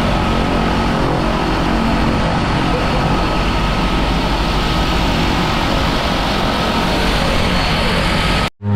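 Light aircraft's propeller engine droning under heavy rushing wind noise. Near the end the sound cuts off abruptly, then resumes as a clearer, steady low engine drone.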